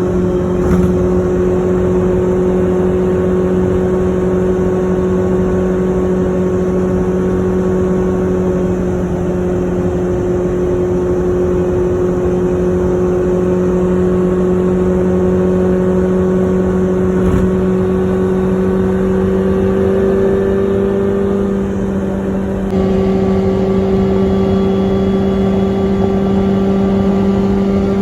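Classic Fiat 500's air-cooled two-cylinder engine running at a steady pitch through a homemade RPM-style exhaust while driving, its note creeping slightly higher about three quarters of the way in. The sound dips briefly and then changes abruptly near the end.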